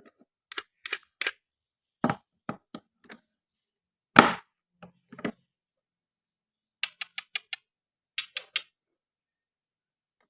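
Toy fruit and a toy knife clicking and knocking on a cutting board: separate sharp clicks with silence between, one heavier knock a little before the middle, and a quick run of about six light ticks a little after it.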